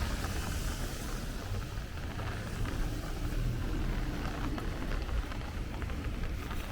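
Rain falling steadily, with gusting wind rumbling on the microphone.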